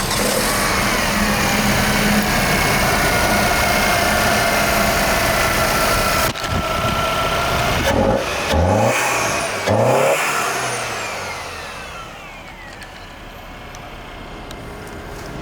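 Mercedes M271 1.8-litre four-cylinder engine running, blipped twice about eight and nine and a half seconds in, then shut off, its high whine falling away as it winds down.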